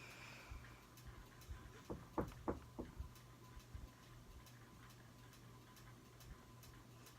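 Faint, regular ticking about every half second over a low steady hum, with a quick run of four or five soft knocks about two seconds in.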